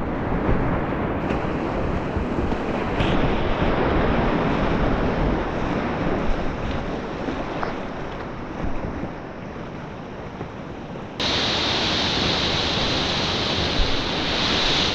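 Whitewater rushing loudly as a kayak runs a steep mountain river. About eleven seconds in, the sound changes abruptly to a louder, higher hissing rush.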